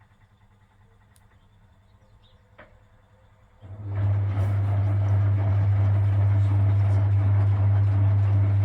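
Vintage Frigidaire Super Deluxe Automatic 50 washing machine: about three and a half seconds in, a motor in the machine starts with a loud, steady hum that holds without a break.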